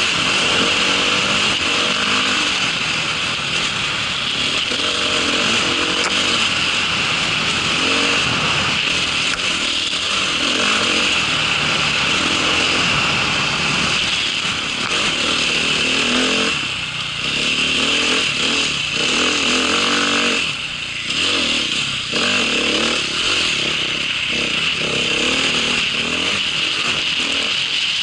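A small vehicle engine running under way, its pitch rising and falling with the throttle, easing off briefly twice in the second half.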